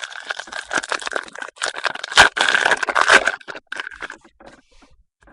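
Trading cards and packs being handled: quick scraping, rustling and clicking of card stock. It is busiest and loudest about two to three seconds in and thins out near the end.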